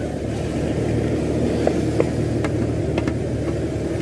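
Motorcycle engine running steadily at low speed, with a few light clicks.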